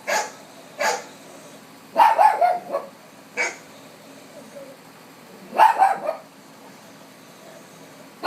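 Dog barking in short outbursts: single barks near the start, about a second in and around three and a half seconds, and quick runs of two or three barks around two seconds and again near six seconds, with quiet gaps between.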